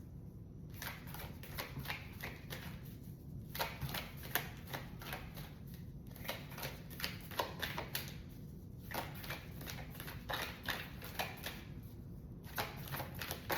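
A tarot deck being shuffled by hand: a quick run of card flicks and slaps, broken by short pauses every few seconds.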